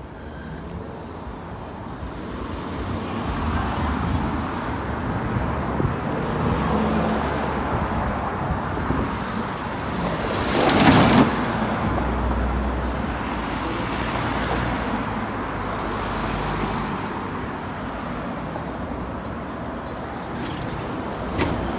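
Road traffic passing: cars, buses and trucks driving by as a steady rumble, with one vehicle passing close and loud about halfway through.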